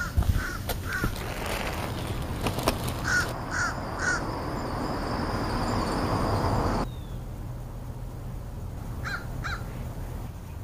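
American crows cawing: a quick series of three caws, three more about three seconds later and two near the end. Behind the middle caws a steady rushing noise with a high whine builds, then stops abruptly about seven seconds in.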